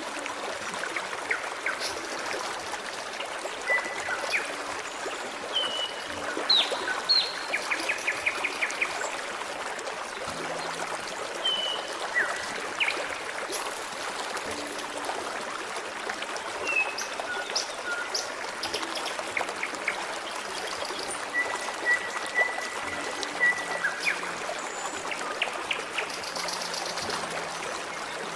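A forest stream trickling and babbling steadily, with several songbirds chirping and whistling in short phrases throughout.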